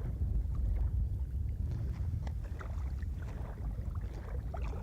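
Wind buffeting the microphone: a steady low rumble with faint, scattered short ticks.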